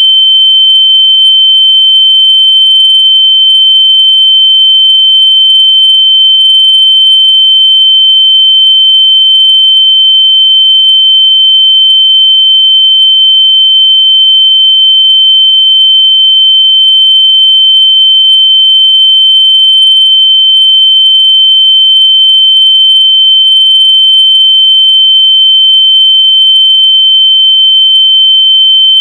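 Loud, steady, high-pitched electronic sine tone held at one unchanging pitch, a noise played to help locate lost AirPods.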